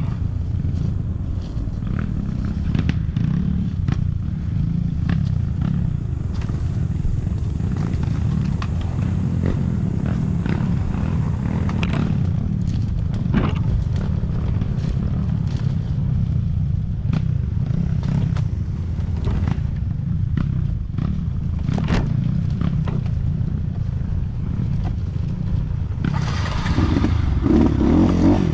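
Trail motorcycle engine running steadily under way, with scattered knocks and rattles. Near the end the engine pitch rises and wavers as it revs harder.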